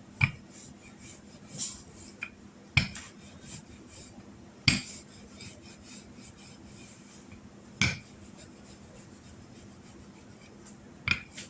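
Rolling pin rolling out dumpling dough on a floured counter: quiet rubbing, broken by about five sharp knocks as the pin is set down or bumps the board.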